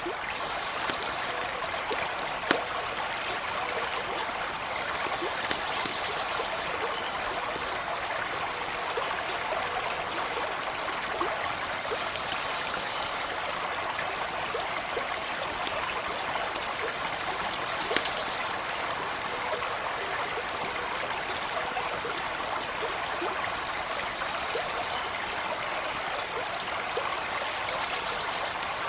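A stream running steadily over stones, with scattered sharp crackles and pops from a campfire, the loudest about two seconds in and near the middle.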